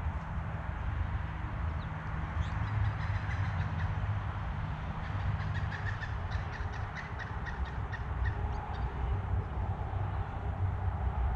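A bird giving a quick series of short call notes for several seconds, which the uploader thinks sounds like a pileated woodpecker, over a steady low rumble.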